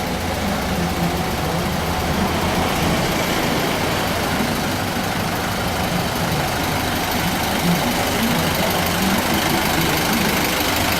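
Diesel engine of an ice delivery truck idling steadily, left running unattended.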